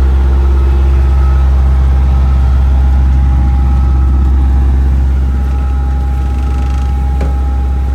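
Sailboat's inboard engine running steadily at constant speed: a loud, low drone with a steady whine riding above it.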